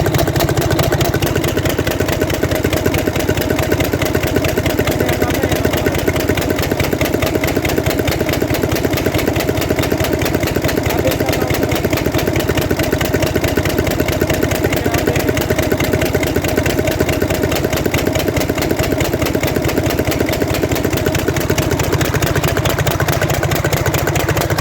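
Mercedes-Benz Actros six-cylinder diesel engine idling loud and steady with its exhaust silencer opened. The engine has a firecracker-like popping in cylinder 3, which the mechanic traced to that cylinder's diesel pump.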